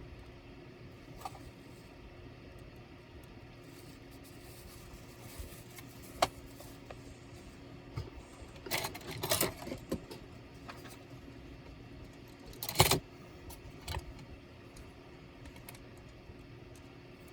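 Small hard parts clicking and clattering as a laptop is handled during disassembly: a few single clicks, a short run of rattling about halfway through, and one sharp clack near the end, over a steady low hum.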